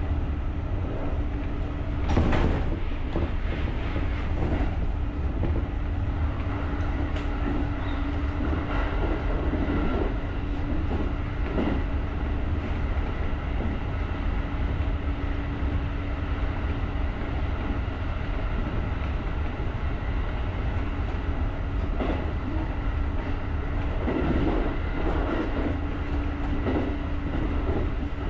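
JR electric rapid commuter train running along the track: a steady low rumble with a steady hum, and clacks as the wheels pass over rail joints, loudest about two seconds in and again near the end. The hum drops away for several seconds in the middle and returns near the end.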